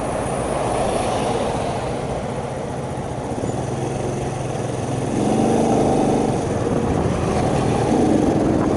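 Small 50cc Shineray motorcycle engine running, with wind noise on the microphone. The engine sound gets louder about five seconds in and again near the end.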